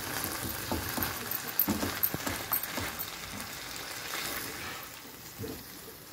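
Chicken pieces frying in sauce in a pan, sizzling while a silicone spatula stirs them, with a few short taps and scrapes of the spatula against the pan.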